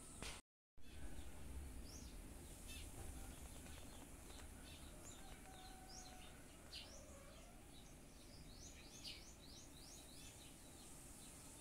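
Faint background ambience with birds chirping in short, high, quick calls, thickest in the second half. The sound drops out completely for a moment about half a second in.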